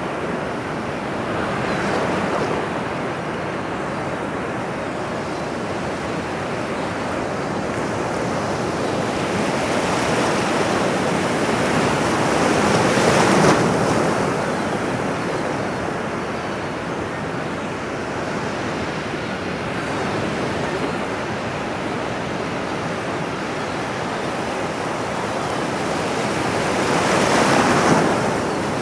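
Ocean surf on a shore: a steady rush of water that swells as waves break, loudest about halfway through and again near the end.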